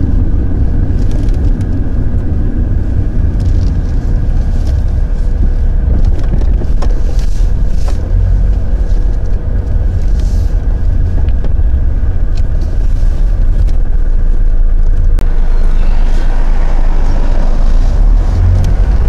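Loud, steady low rumble that carries through without a break.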